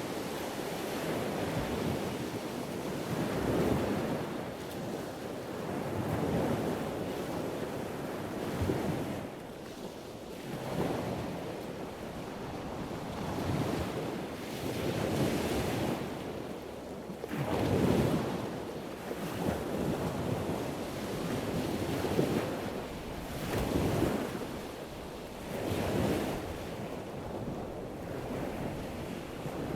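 Ocean surf washing in, rising and falling in swells every few seconds, with wind noise on the microphone.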